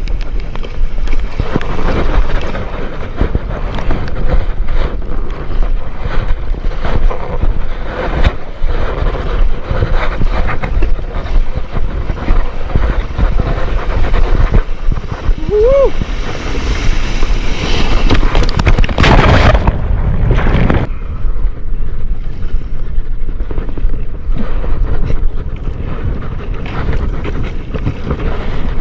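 Wind buffeting an action camera's microphone, with water rushing and splashing around a stand-up paddleboard in surf. A louder rush of water comes about two-thirds of the way through, and a brief squeak is heard shortly before it.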